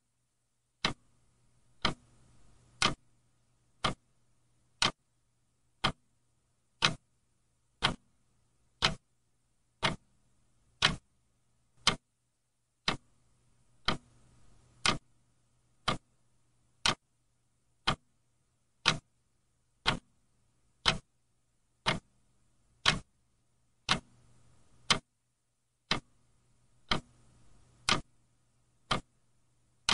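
Clock ticking steadily, one sharp tick about every second, with a faint low hum between the ticks.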